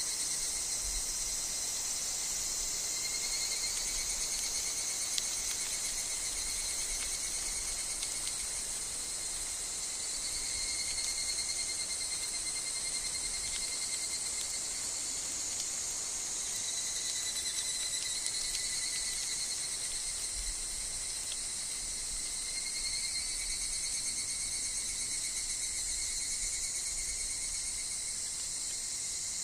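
Continuous chorus of insects in a summer forest, with the higurashi (evening cicada) among them: a steady high-pitched shrill of overlapping trilling tones that swells and eases slightly over the stretch.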